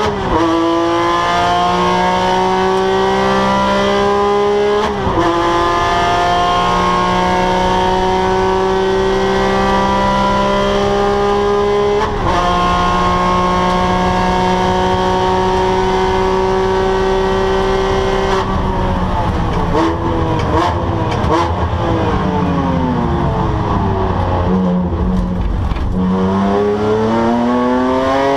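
Porsche 997 GT3 flat-six at full throttle, climbing in pitch through the gears with upshifts about 5 and 12 seconds in, then held high. Later the pitch falls under braking through several downshifts, and near the end it climbs again as the car accelerates.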